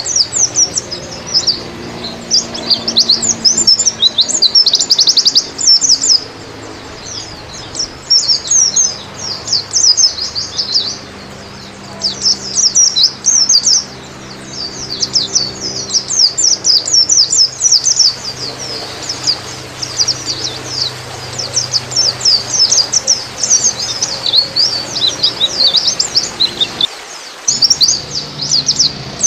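White-eye (pleci) singing a fast, high twittering song in long phrases broken by short pauses.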